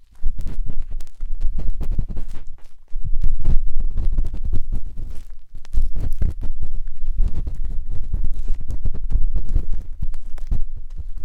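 A matchstick scratching and rubbing inside the silicone ear of a 3Dio binaural microphone: dense, crackly scraping close to the mic with a deep rumble under it. It starts just after the opening and breaks off briefly about three seconds in.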